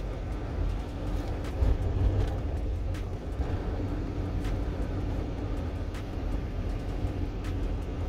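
Car driving along: a steady low rumble of engine and road noise, with a few light clicks.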